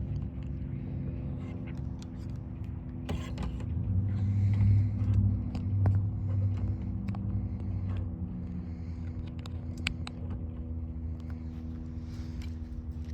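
Steady low engine rumble with a constant hum, swelling louder about four to six seconds in, with scattered light clicks.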